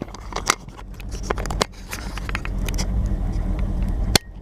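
A Chevy 454 big-block V8 running, heard from inside the truck's cab, with sharp clicks and rattles of handling nearby in the first couple of seconds. The engine grows louder in the second half, and a single sharp knock comes near the end.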